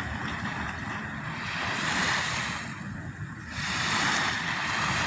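Sea waves washing onto the shore of the Arabian Gulf, the surf swelling louder twice about two seconds apart, with a low rumble of wind on the microphone.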